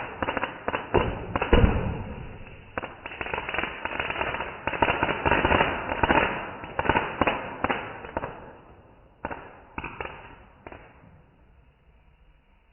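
Fireworks going off: rapid, overlapping bangs and crackle that thin out to a few separate bangs about nine to eleven seconds in, then die away.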